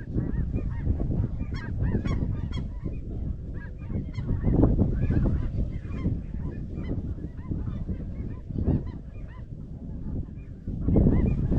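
A flock of snow geese calling, many short high calls overlapping without a break, over a steady low rumble.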